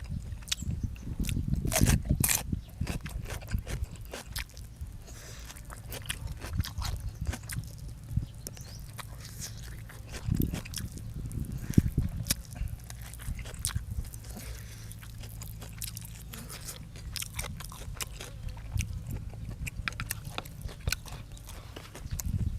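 Close-up eating sounds: a person chewing and biting food, with scattered crunches and mouth clicks, louder in spells about two seconds in and again around ten to twelve seconds. A steady low hum runs underneath.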